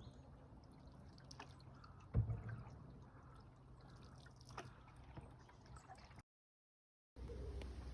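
Quiet canoe paddling on a calm river: water dripping and gurgling off the paddle, with a single knock about two seconds in. The sound cuts out for about a second near the end.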